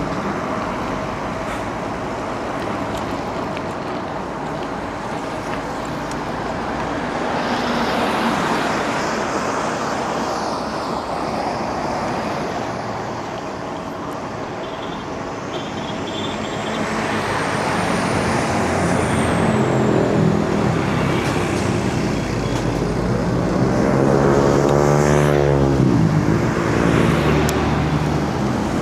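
Steady road traffic noise from passing cars and motor vehicles, heard from a bicycle. About three-quarters of the way through, a vehicle's engine passes close and its pitch sweeps down as it goes by.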